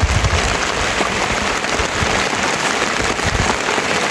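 Steady heavy rain falling, a dense even patter.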